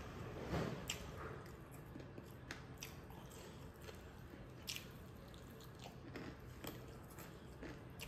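Close-miked chewing and mouth sounds of a person eating smoked pork with his hands, with scattered small clicks and wet crackles, the loudest about a second in.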